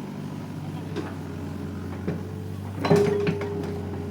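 Sany SY80C excavator's diesel engine running steadily, with a few knocks and a loud clunk about three seconds in, followed by a brief held whine.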